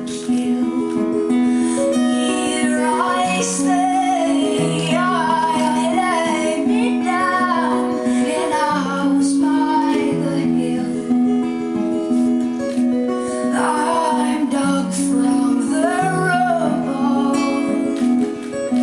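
A woman singing a slow melody over guitar accompaniment, the voice carrying held notes.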